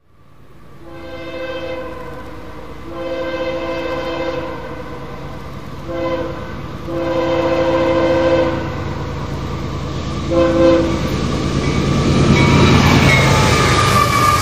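Locomotive air horn sounding the long, long, short, long grade-crossing signal, then one more short blast, as a train approaches. The train's rumble grows steadily louder and is loudest near the end as the train comes past.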